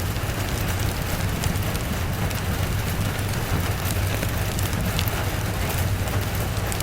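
Steady rain and a crackling wood fire, with scattered sharp crackles over an even hiss and a steady low rumble underneath.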